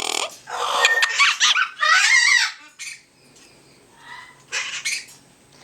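Parrot giving harsh squawks and squeaky, wavering calls for about two and a half seconds, then a few quieter calls near the end.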